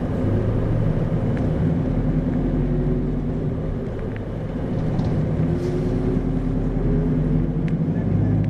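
Inside the cabin of an Isuzu 2RG-LV290N4 city bus under way: a steady diesel engine hum with road rumble. The engine note dips briefly about halfway, then picks up again.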